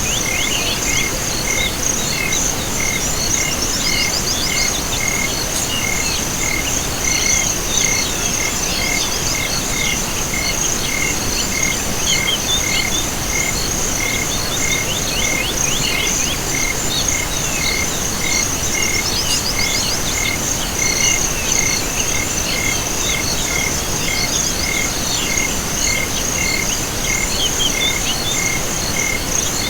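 Night chorus of insects and frogs: a continuous high, pulsing insect trill and a chirp repeating at an even pace, under scattered quick rattling frog calls.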